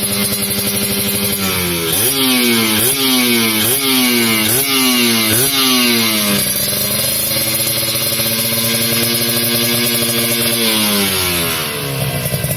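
Kawasaki Ninja motorcycle engine through a Creampie ZZ1 galvanized aftermarket exhaust, revved in about five quick blips, then held steady at raised revs for a few seconds before dropping back to idle.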